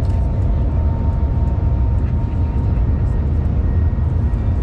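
Shanghai Maglev train cabin at high speed: a steady low rumble with a rushing hiss of air and track noise.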